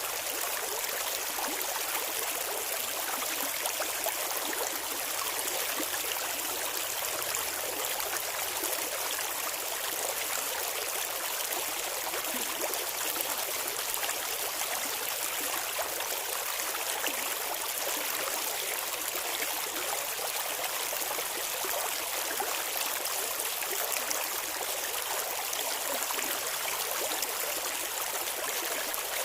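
Clear shallow river water flowing and babbling over rocks, a steady, even rush.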